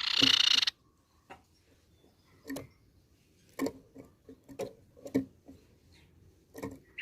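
A loud, harsh rasping burst of about 0.7 s, typical of a tepus pipi-perak's scolding call, followed by six or seven soft, irregular knocks spaced about a second apart.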